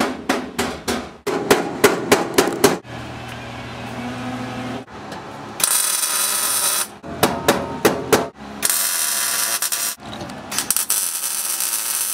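Runs of sharp tool strikes on metal, several a second, alternating with bursts of hissing noise about a second long.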